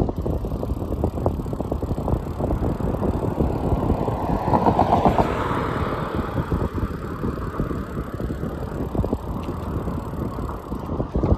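Wind buffeting the microphone and road rumble from a moving bicycle. A vehicle swells past about five seconds in.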